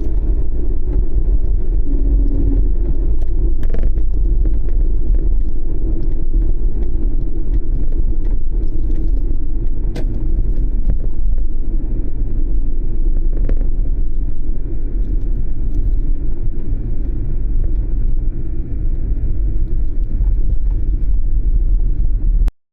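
Kei camper van on the move: a steady low rumble of engine and road noise that cuts off suddenly near the end.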